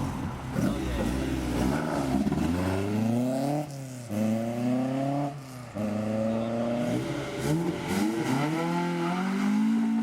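A car engine is revved in several short blips, then pulls away hard. Its pitch climbs steadily and drops sharply at gear changes about three and a half and five and a half seconds in, then swells again and settles.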